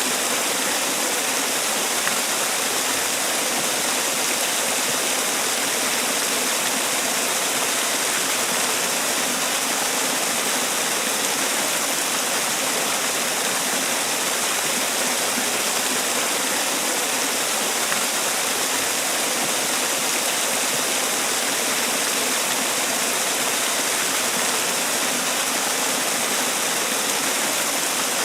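Man-made waterfall: a steady rush of falling water.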